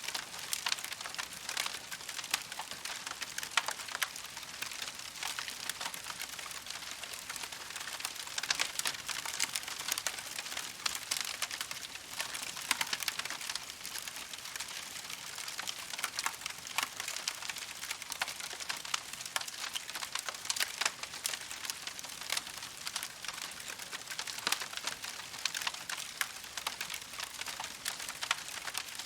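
Wood campfire crackling steadily: a constant hiss with many small, sharp pops and snaps.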